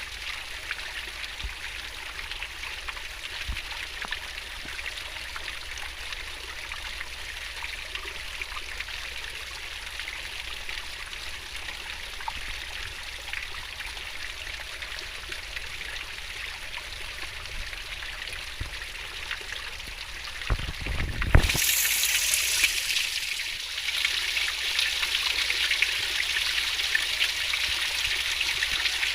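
Fast-flowing stream water babbling and rushing steadily. About two-thirds of the way through there is a brief low thump, after which the water sounds louder and brighter.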